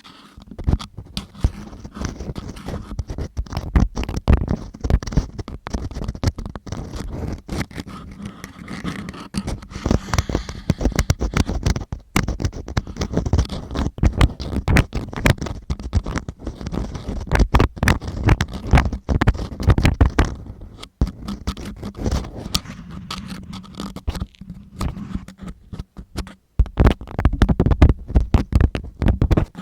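ASMR deep ear cleaning: an ear-cleaning tool scraping and scratching right against the microphone in dense, irregular strokes and crackles, with a heavy low rumble of contact.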